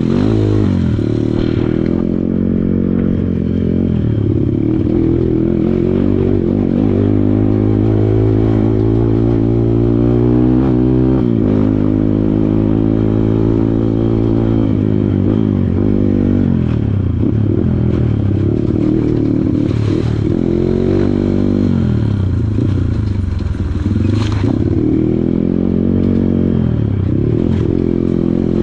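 Kawasaki KLX140 dirt bike's single-cylinder four-stroke engine being ridden off-road, revving up and down over and over as the throttle is worked. Two sharp knocks stand out in the second half.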